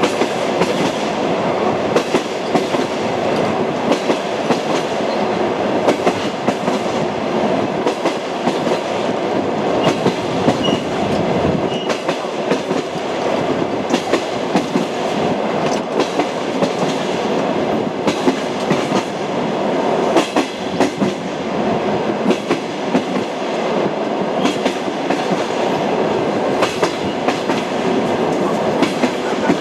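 Express passenger train running on jointed rail: a steady rumble of wheels with the repeated clickety-clack of wheelsets crossing the rail joints.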